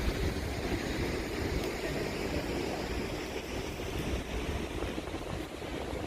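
Busy city street noise with wind buffeting the microphone; the low wind rumble is heaviest at first and eases toward the end.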